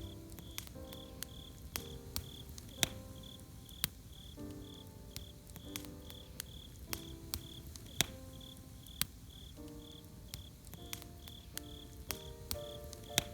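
Campfire crackling with irregular sharp pops, over crickets chirping steadily about three times a second. Soft melodic notes drift in and out underneath.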